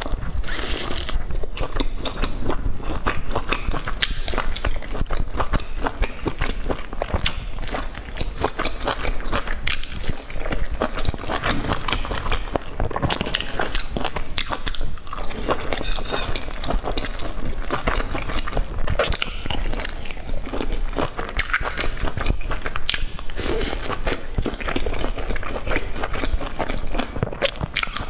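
A person biting and chewing fried sweet-and-sour stuffed eggplant fritters, a dense run of quick clicks and smacks of eating throughout.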